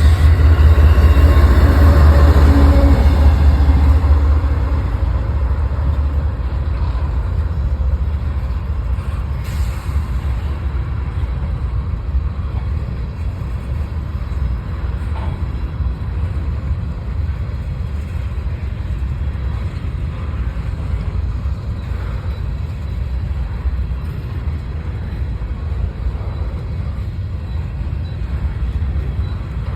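Train rumble, loud for the first few seconds with several high tones fading out, then settling to a steadier, quieter low rumble as the train keeps rolling.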